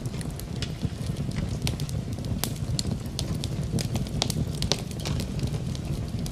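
Wood fire in a fireplace crackling, with irregular sharp pops and snaps over a steady low rush, mixed with the sound of rain.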